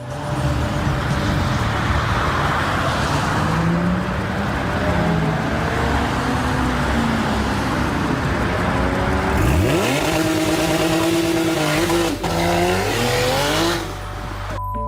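Car engine revving hard, its pitch climbing and dropping again and again as it accelerates and shifts, with sharper rising sweeps near the end.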